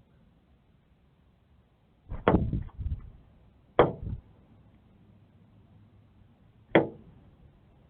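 Male northern cardinal striking a window pane: a cluster of thumps and knocks against the glass about two seconds in, another sharp knock near four seconds, and a single knock near the end.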